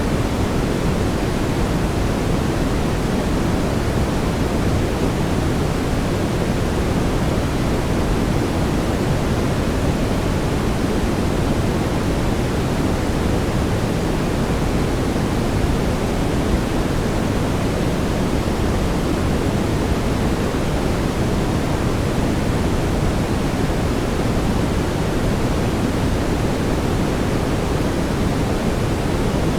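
Brown noise: a steady, deep hiss weighted toward the low end, with no rhythm or change.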